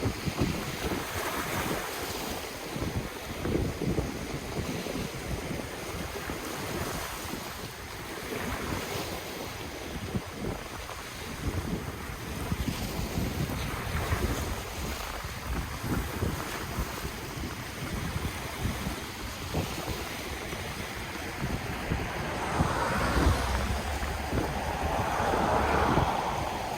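Ocean waves breaking and washing on the shore in irregular swells, the largest near the end, with wind buffeting the microphone.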